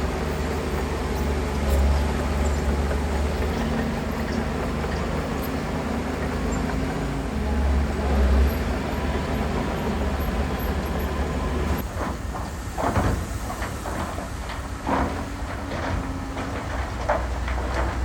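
Heavy diesel engine of an earthmoving machine running steadily. About two-thirds of the way through, a series of sharp knocks and clatter sets in.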